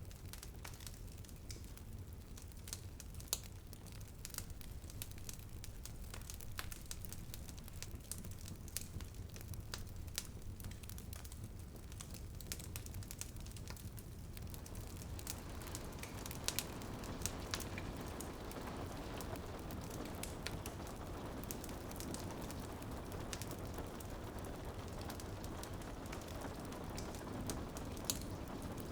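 Wood fire crackling with scattered sharp pops, over rain pattering on a window that thickens into a steadier, fuller rain about halfway through.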